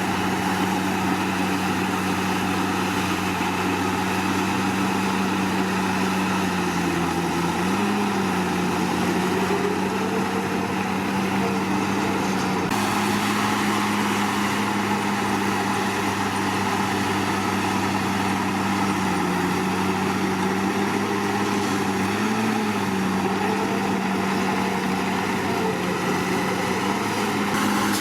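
Diesel engine of a Komatsu D61PX bulldozer running steadily at working speed. Its pitch dips briefly and recovers several times.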